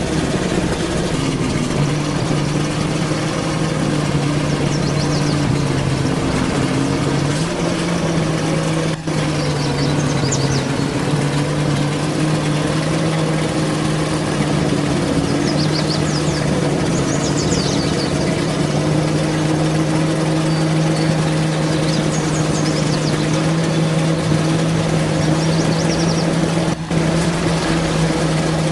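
Truck engine running steadily at low speed, its note shifting slightly a couple of times, with short high chirps or squeaks now and then.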